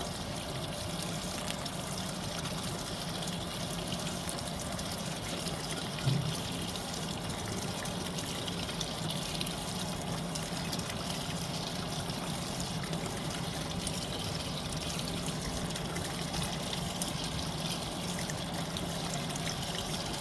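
Fisher & Paykel MW059 top-loading washing machine filling its tub for the final rinse: water pours in steadily from the inlet. A brief thump about six seconds in.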